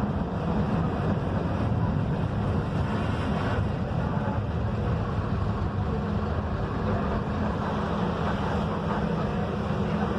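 Mercedes-Benz OF-1721 city bus under way: its front-mounted diesel engine runs with a steady low hum under continuous road and wind noise, heard from inside the cabin.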